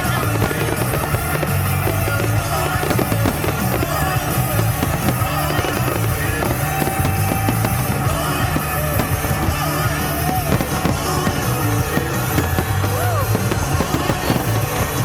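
Loud music, with fireworks bursting and crackling throughout.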